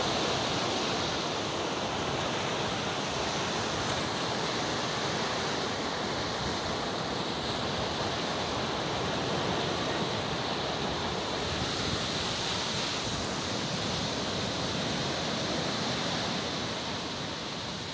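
Mediterranean surf: sea waves washing onto a beach in a steady, continuous rush that swells and eases slowly.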